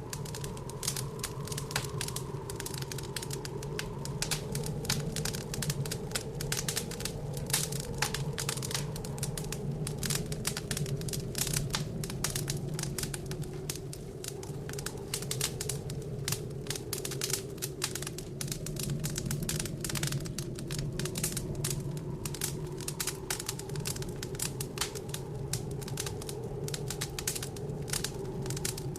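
Wood fire crackling and popping in a fireplace, a dense run of irregular sharp snaps, over a steady low blizzard wind whose pitch wavers slowly.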